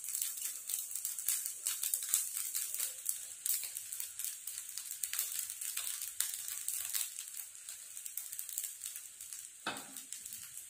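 Fried rice sizzling in a hot wok as cut long beans go in, a steady hiss with fine crackling. There is a single knock near the end.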